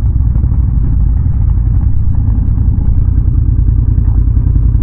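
Can-Am Renegade ATV's V-twin engine running steadily while riding, a deep, continuous low rumble.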